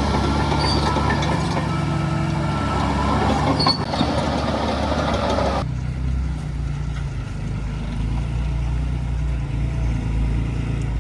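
Heavy diesel earthmoving machinery running, a low engine rumble throughout. In the first half higher-pitched mechanical and hissing noise sits over it, with a sharp knock a little before the middle. That upper noise cuts off suddenly about halfway, leaving the low rumble.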